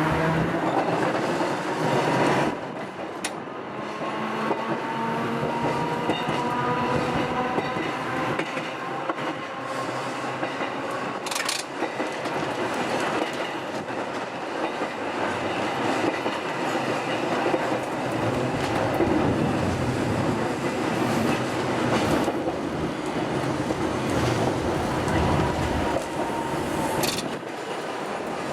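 Hakodate City Tram type 500 streetcar running, heard from the driver's cab, with a whine that rises in pitch a few seconds in as it picks up speed. The wheels click sharply over rail joints a few times.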